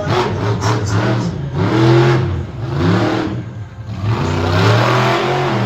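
Monster truck engine revving hard, its pitch repeatedly climbing and falling as the throttle is worked, easing off briefly a little past halfway and then building again.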